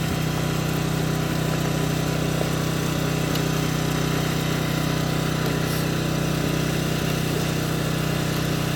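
Steady machine hum like an engine or motor idling, one low tone holding even with no change in speed.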